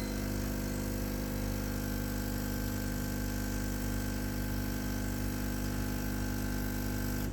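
Bellezza Bellona dual boiler espresso machine's pump running steadily with a mechanical hum at power-up from cold, cutting off abruptly near the end.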